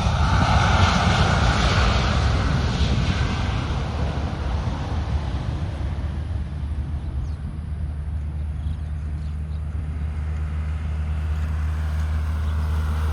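Airliner passing on its landing approach, its engine noise loud at first and fading away over several seconds, over a steady low rumble.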